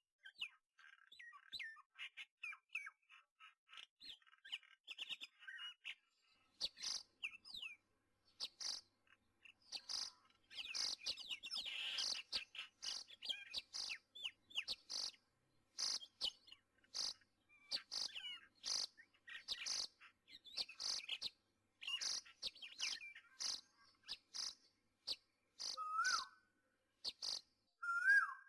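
Birds chirping outdoors: many short, high calls in quick succession, with a few lower whistled notes that rise and fall near the end.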